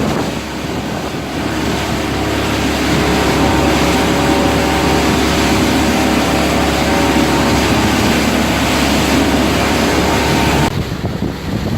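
Motorboat engine running steadily under way, over a loud rush of wind and water. Near the end it cuts off abruptly, leaving only gusty wind and water.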